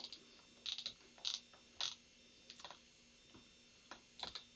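Faint, irregular clicking at a computer, about eight sharp clicks, some in quick pairs, while a website is being navigated.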